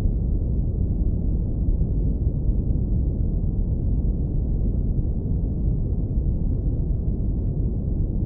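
Low-pass filtered brown noise: a steady, deep rumble with no high end, constant throughout.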